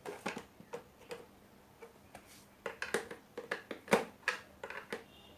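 Irregular clicks, taps and knocks of tools and plastic parts being handled while an LED TV is being taken apart, with one sharper knock about four seconds in.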